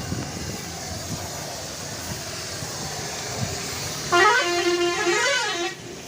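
A vehicle horn sounding for about a second and a half near the end, its pitch holding, then climbing and dropping, over a steady background noise.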